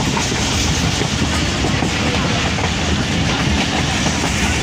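The Subak Raftar Express railcar running along the track, a loud, steady train running noise with no breaks.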